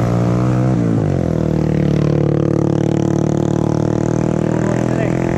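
A motor vehicle's engine running close by. Its pitch drops about a second in, then holds steady.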